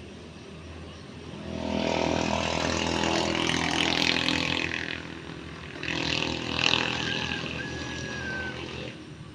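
A motor engine running steadily, growing louder about a second and a half in, easing off near five seconds, then swelling again about six seconds in.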